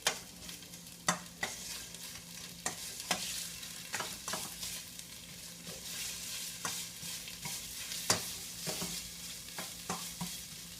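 Green curry paste frying in oil in a pan on high heat, sizzling steadily, while a utensil stirs and presses it, knocking and scraping against the pan every second or so.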